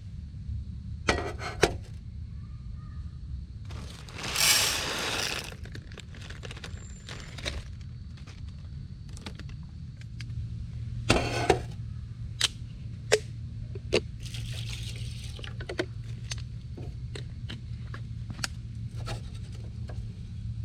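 Handling noises: scattered sharp knocks and clicks, with one louder scrape about four seconds in, over a low steady rumble.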